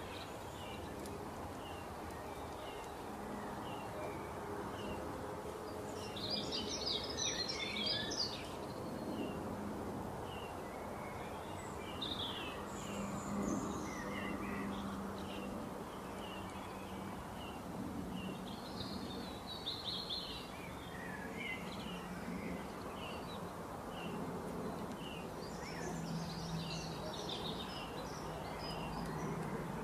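Birds chirping over a steady background hiss: short chirps repeat every second or so, with busier flurries of higher calls four times.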